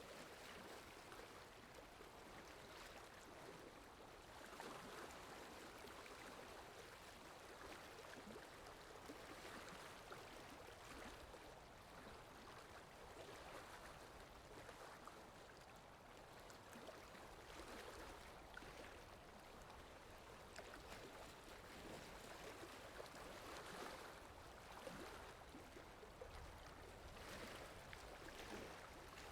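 Flowing stream water rushing and gurgling over rocks, steady and fairly faint.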